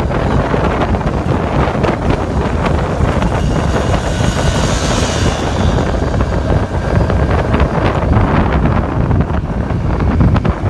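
Steady wind rush buffeting the microphone of a camera riding along on a moving motor scooter, with vehicle running noise underneath.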